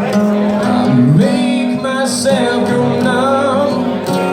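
Live band playing: a singer holds wavering notes over guitar.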